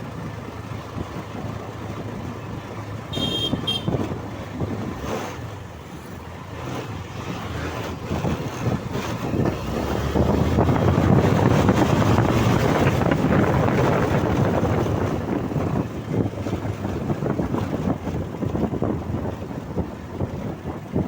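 Wind buffeting the microphone on a moving motorcycle, with the bike's running underneath. A short horn beeps twice about three seconds in, and the wind rush grows louder from about ten seconds in.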